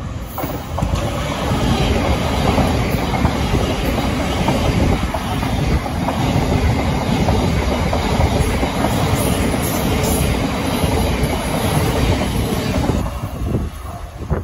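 Electric multiple-unit train, a Thameslink Class 700, running close past on the platform line: a loud, steady rush of wheel-on-rail and running noise that drops away near the end.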